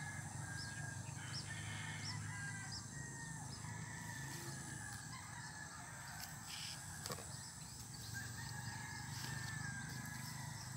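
Faint outdoor ambience: birds chirping and calling repeatedly over a low steady hum, with a single sharp click about seven seconds in.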